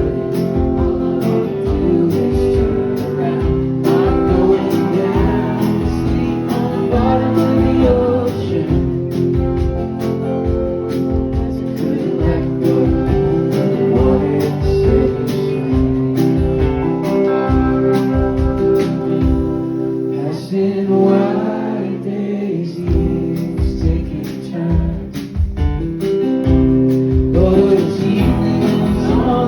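Live alt-country band playing a song: guitar over a steady drum beat of about two hits a second, with singing.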